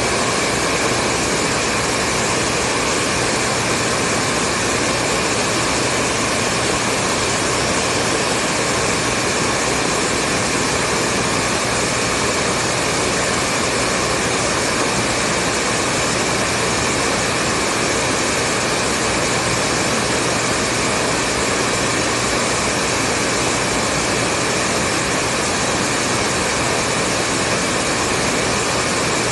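Hair dryer blowing continuously at a steady speed, a constant airy whoosh with a faint motor whine and no change in pitch or level.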